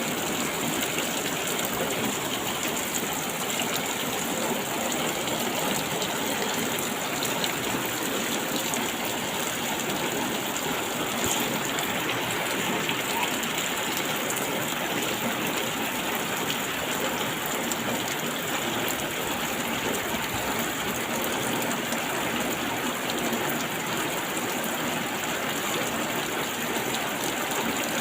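Steady rain falling, a constant dense hiss of drops with no let-up.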